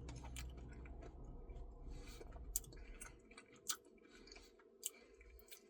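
Faint chewing and small wet mouth clicks from someone eating a Blizzard-style ice cream treat, thinning out after about three seconds to a few isolated clicks.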